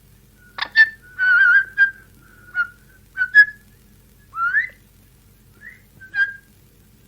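Parrot whistling: a series of short clear whistles and chirps, one of them warbling and one sliding upward, mixed with a few sharp clicks.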